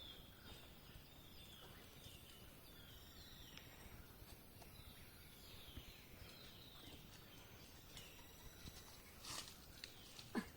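Faint forest ambience with a bird repeating short, falling whistled notes every second or so. A brief louder sound comes near the end.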